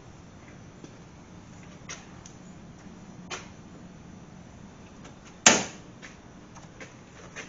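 Scattered light clicks and taps of reassembly work on the car's undercarriage, with one loud, sharp knock about five and a half seconds in.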